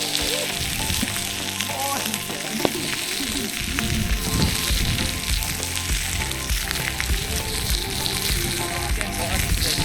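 Steak frying on a hot plate: a steady, dense sizzle.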